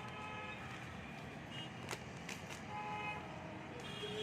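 Vehicle horns tooting several times in short blasts over a steady traffic rumble, with one sharp click about two seconds in.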